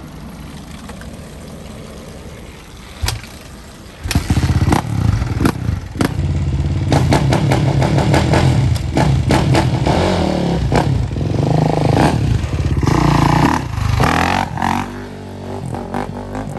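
Kawasaki KX450F dirt bike's four-stroke single-cylinder engine coming in loud about four seconds in and revving hard, then easing off near the end.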